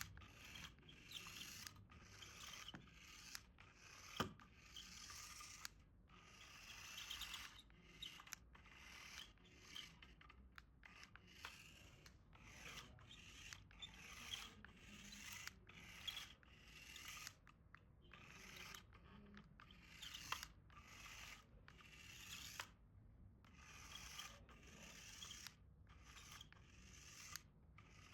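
Faint repeated rubbing and scraping strokes, about one to two a second, as of toy packaging being handled and worked open, with one sharper click about four seconds in.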